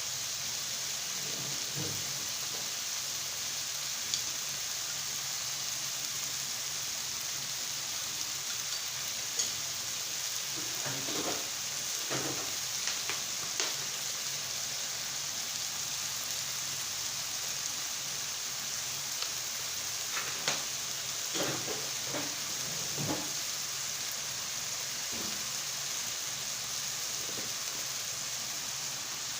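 Food sizzling steadily in a hot pan, with a few scattered scrapes and knocks of a utensil stirring it, most of them in the middle of the stretch.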